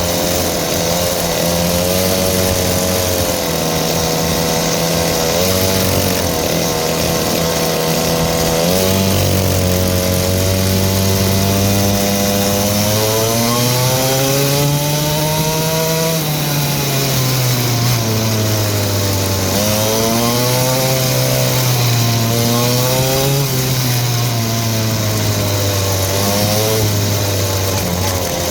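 Small dirt bike engine running under way. Its pitch holds fairly steady at first, climbs about halfway through as the throttle opens, then drops and rises a few more times.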